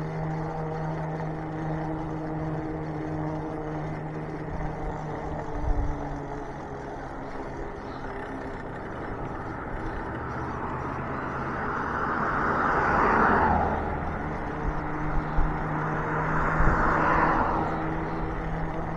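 A riding e-bike's conversion-kit hub motor hums steadily, fades out for several seconds in the middle, then comes back. In the second half, two swells of traffic noise rise and fall, like vehicles passing.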